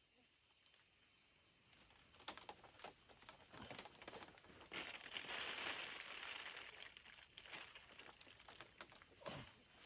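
Faint crinkling and rustling with scattered small clicks, swelling into a brief hiss about halfway through.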